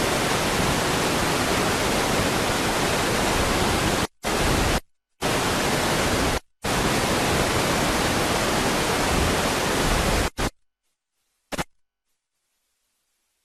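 A loud, steady hiss of noise with no tone in it. It cuts out abruptly twice, around four and six seconds in, stops for good just past ten seconds, and returns once as a short blip before near silence.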